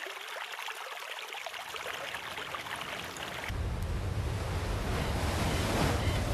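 A shallow stream trickling over sand. About three and a half seconds in it cuts abruptly to a steadier, louder rush of wind and waves with a deep rumble.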